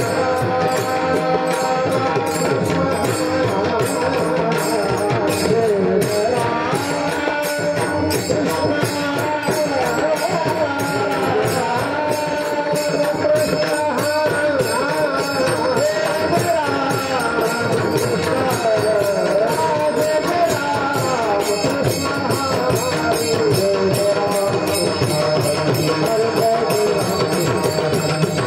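Marathi devotional bhajan: voices singing a melodic line, accompanied by a mridang (barrel drum) and small hand cymbals keeping a fast, steady beat.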